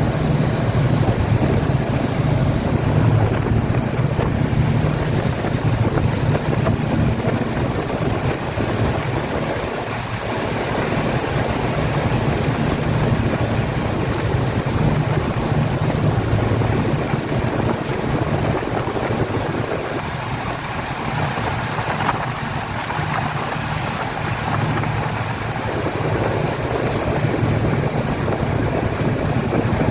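Speedboat engine running with a steady low drone, over a rush of water past the hull and wind on the microphone.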